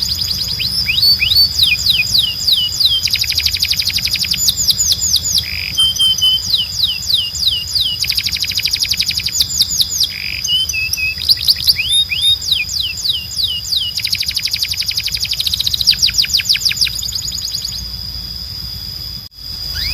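Timbrado canary singing: repeated runs of quick falling notes alternating with fast trills, the song stopping near the end. A steady high tone runs beneath.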